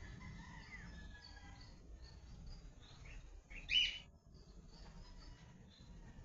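Birds chirping faintly, with one louder, sharper call about three and a half seconds in, over a low background rumble.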